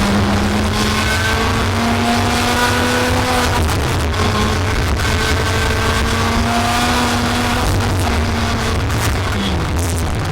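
Racing kart engine pulling up in pitch in long, slow rises, easing off and climbing again several times, under a heavy low rumble of wind buffeting on the microphone.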